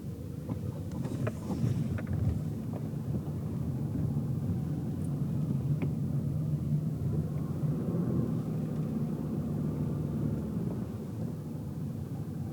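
Car driving, heard from inside the cabin: a steady low engine hum over road rumble, with a few light clicks and rattles about one to two seconds in.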